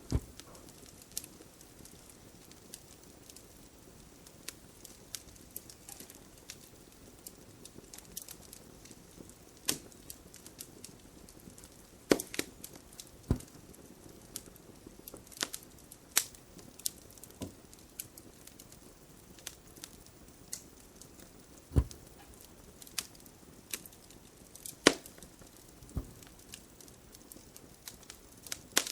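Wood fire crackling, with sharp pops at irregular intervals and a few duller, deeper knocks among them, over a low steady hiss.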